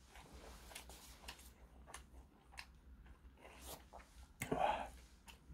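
A person chewing a mouthful of ramen noodles close to the microphone: faint wet clicks and smacks of the mouth, with one louder, brief mouth sound about four and a half seconds in.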